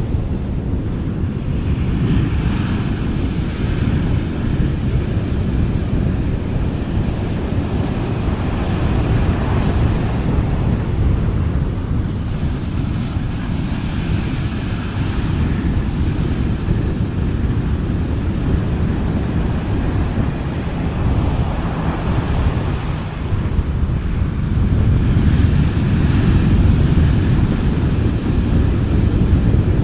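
Gentle sea waves washing onto a beach in slow, soft swells every few seconds, with a deep rumble underneath that may be partly wind on the microphone.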